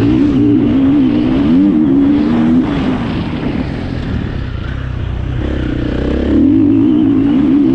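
2021 KTM 350 four-stroke single-cylinder enduro engine under hard throttle, its note wavering as the revs rise and fall. It backs off about three seconds in and opens up loud again about six seconds in.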